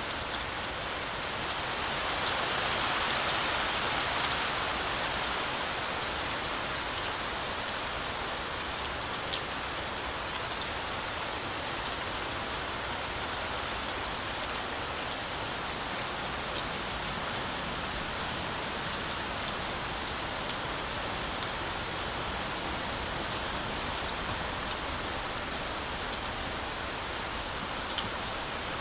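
Heavy rain falling steadily through a forest canopy, an even hiss with scattered sharper drop taps, swelling slightly a few seconds in.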